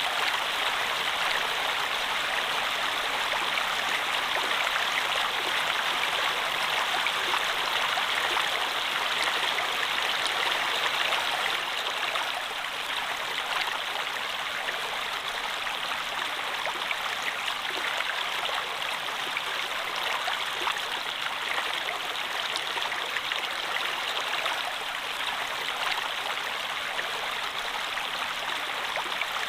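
Steady rush of a flowing stream, water running and splashing continuously without a break.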